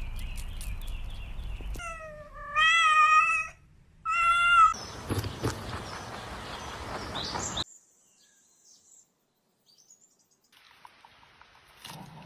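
A cat meowing twice: a drawn-out meow of about a second, then a shorter one, over steady background noise. The sound cuts off suddenly about seven and a half seconds in, leaving near silence with a few faint noises.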